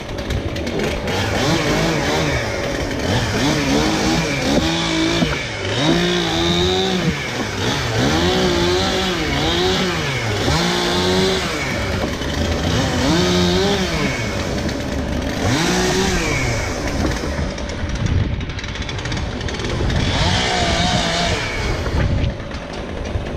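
Two-stroke chainsaw revved up and down over and over, its pitch rising and falling every second or two as it works through limbs.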